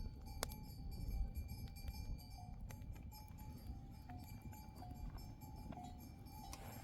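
Livestock bells on a flock of sheep and goats, giving scattered faint clinks and short ringing notes over a steady low rumble.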